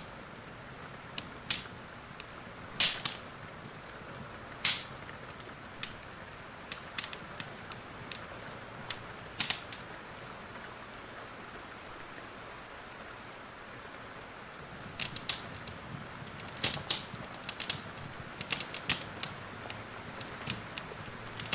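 Fireplace fire crackling with sharp, irregular pops over a steady hiss of rain. The pops are sparse at first and come more often in the last third.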